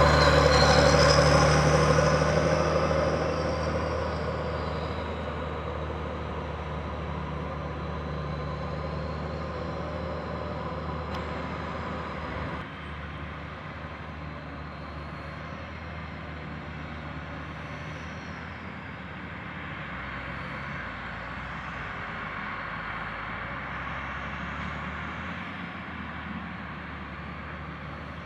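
Heavy diesel vehicle engine running with a steady low hum. It is loudest in the first couple of seconds and falls away by about four seconds in, then holds a steadier, lower level with a small drop about halfway through.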